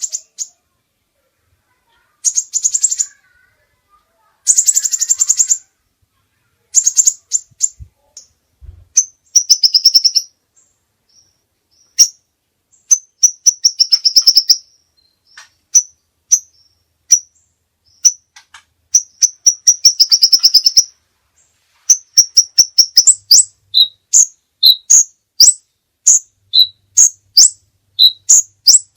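A songbird singing in bursts of very fast, high trills with short pauses between them. Toward the end it changes to a run of separate sharp chirps, about two a second, alternating a higher and a lower note.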